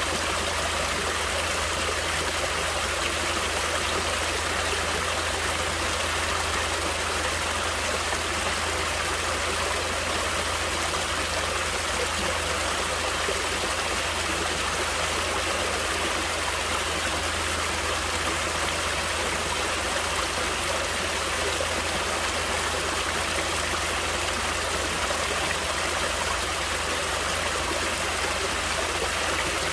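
Running water of a natural stream, flowing steadily with an even rushing and babbling that does not change.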